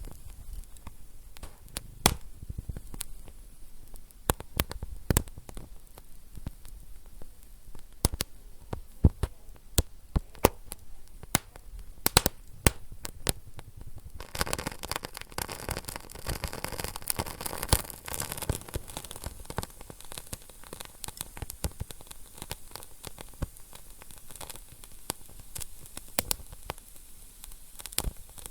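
Wood fire in a fireplace crackling, with irregular sharp pops over a low hiss. About halfway through, a denser hissing and sizzling spell lasts a few seconds before settling back to scattered pops.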